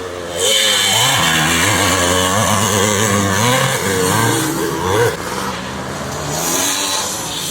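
Vintage motocross bike engines on track, revving up and down as the throttle is worked. The sound gets louder about half a second in, peaks near five seconds and then eases off.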